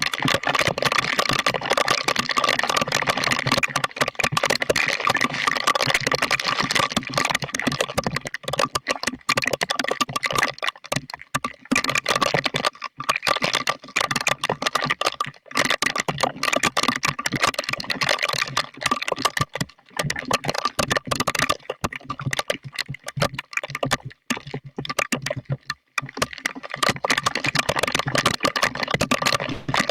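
Heavy thunderstorm rain beating on a hard surface close by, a loud, dense crackle of countless drop impacts, briefly easing a few times.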